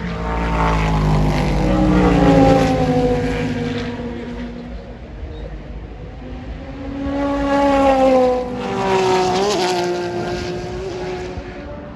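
Race cars passing at speed, two pass-bys with the engine note dropping in pitch as each goes by, loudest about two seconds in and again about eight seconds in.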